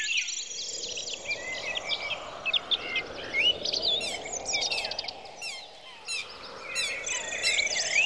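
Several small songbirds chirping and twittering together, with many quick, high chirps and short rising and falling notes overlapping, over a faint steady hiss.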